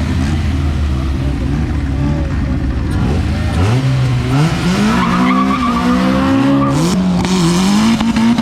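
Car engines idling, then a street-race car launching about three and a half seconds in and accelerating hard. The engine pitch rises, drops at a gear change, and rises again through the gears.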